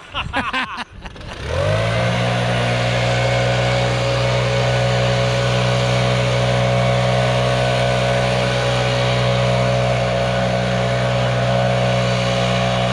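Gas backpack leaf blower engine catching about a second and a half in, its pitch rising quickly to a steady, loud high-speed run that cuts off suddenly at the end.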